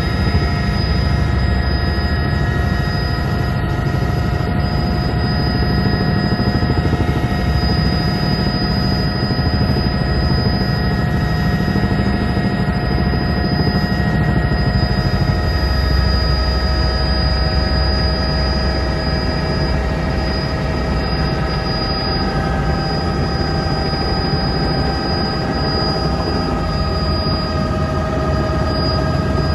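Helicopter in flight: a loud, steady rotor and engine drone with a steady high whine above it.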